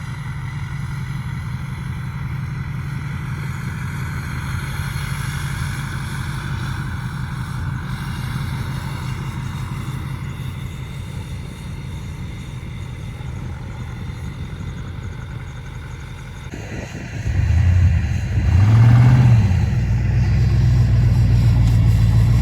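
Pickup truck engine running steadily at low revs, then revving harder and louder about 17 seconds in, the pitch rising and falling as the truck tries to get moving in deep snow.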